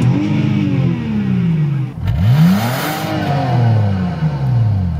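A car engine revved twice, each time climbing quickly in pitch and then falling slowly back, the second rev starting about two seconds in.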